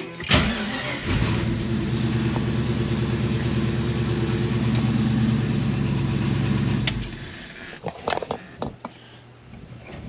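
A 1965 Ford Mustang engine is started on its newly fitted ignition switch, runs steadily for about six seconds, then is switched off.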